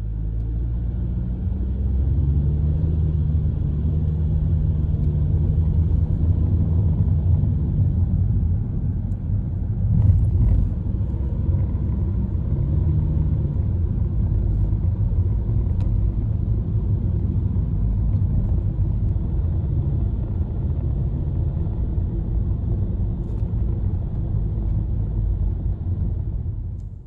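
Mountain river water rushing steadily, a deep continuous rumble.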